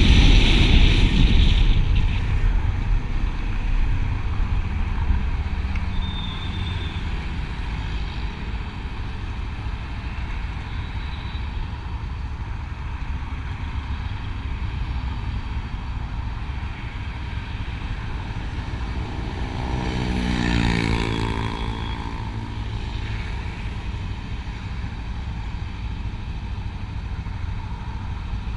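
Motor vehicle sounds: a steady low engine and road rumble, with wind noise that dies away in the first two seconds. About two-thirds of the way in, a vehicle passes close by, its engine note rising in loudness and then falling in pitch.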